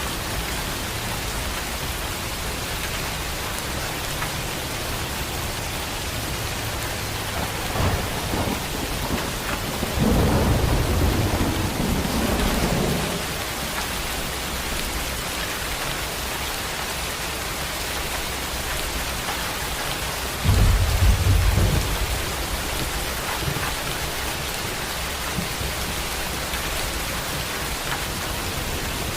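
Heavy rain falling steadily with thunder: a short rumble about eight seconds in, a longer roll about ten seconds in, and the loudest, deep rumble a little after twenty seconds.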